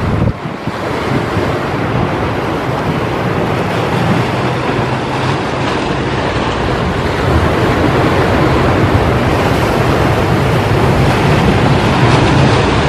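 Sea waves washing onto the shore, with wind on the microphone: a steady, dense rush of surf, with a brief dip in level just after the start.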